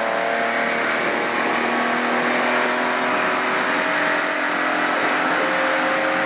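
A 1-litre rally car's engine under load at high revs, heard from inside the cabin, running steadily with its pitch drifting slowly, over a constant hiss of tyre and road noise.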